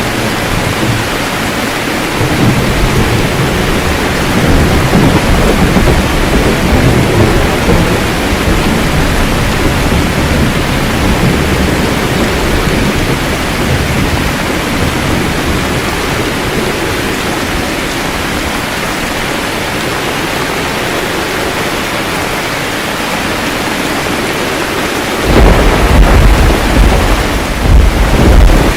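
Steady rain with thunder rolling in low rumbles through the first half, then a loud, close thunderclap and heavy rumble near the end that stops suddenly.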